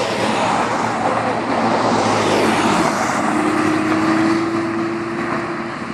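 A vehicle accelerating past at speed over general traffic noise, swelling to its loudest about two to four seconds in. In the second half a steady single tone, a held note, runs for about two and a half seconds.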